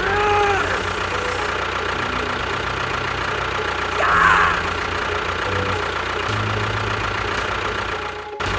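A tractor engine running steadily at idle. A short pitched sound rises and falls near the start and again about four seconds in, and the sound drops out briefly just before the end.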